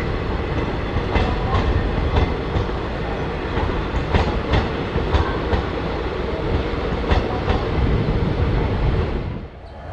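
A passing train rolling along the track, its wheels clacking over rail joints, often in quick pairs as each bogie crosses. The sound drops away suddenly near the end.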